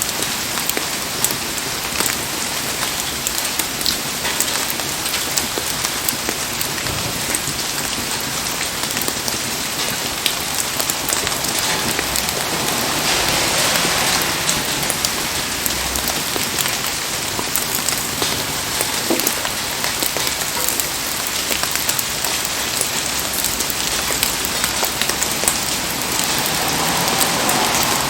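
Heavy rain falling steadily, a dense even hiss scattered with many small sharp drop ticks.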